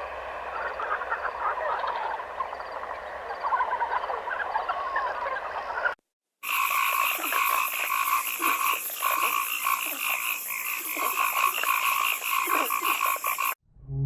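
A chorus of frogs croaking, many short overlapping calls. About six seconds in there is a brief silent break, and a second recording follows with a steadier, rapidly pulsing chorus.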